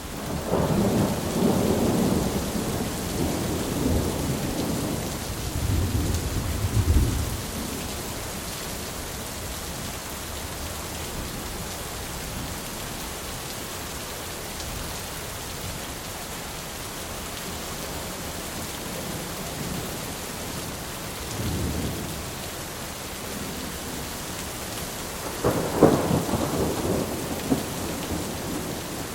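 Thunderstorm: steady rain throughout, with thunder rumbling loudly at the start and dying away after about seven seconds, a faint roll about 21 seconds in, and a sharper, louder clap with rumble about 26 seconds in.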